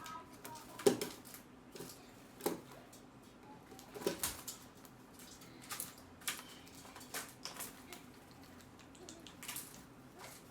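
Irregular light taps and clicks, about eight spread unevenly, the sharpest one about a second in.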